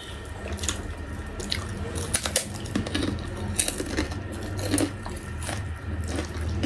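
Biting and chewing of crunchy yellow puffed fried snacks, heard as irregular crisp crunches and crackles.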